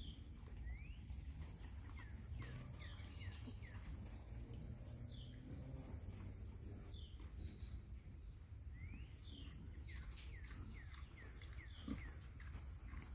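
Faint outdoor farmyard sound: a steady high insect-like hiss with many short, high chirps scattered through it, and a brief low grunt near the end.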